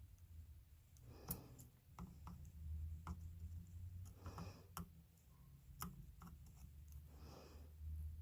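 Faint scattered clicks and light taps of small tools and wires being handled while soldering guitar pickup wiring, with three soft breaths about three seconds apart over a low steady hum.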